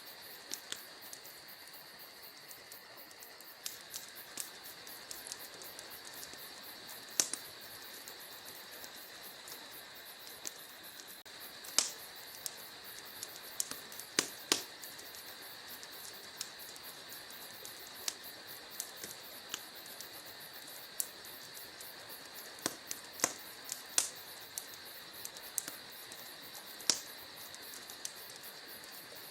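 Wood fire crackling, with irregular sharp pops that are the loudest sounds, over a steady high-pitched chirring.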